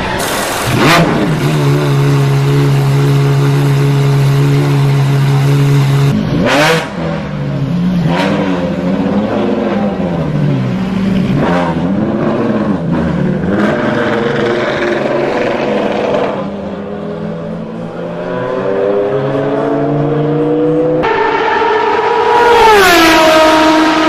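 High-revving Ferrari racing car engines, the pitch holding steady, then rising and falling again and again as the engine revs and shifts gear, with a sharp drop in pitch near the end.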